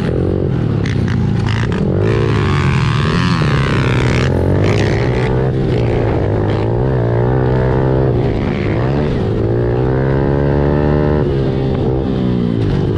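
Honda CRF110F pit bike's small air-cooled single-cylinder four-stroke engine being ridden hard around a dirt track, its pitch climbing and dropping several times as the throttle is opened and closed.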